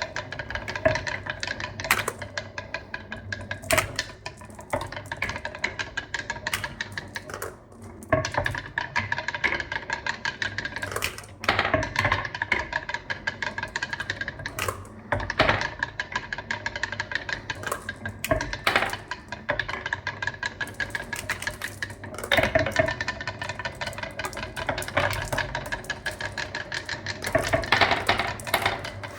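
Many marbles rolling and clattering down a marble run track, a dense run of rapid clicks over a steady rolling rumble, with sharper knocks every few seconds.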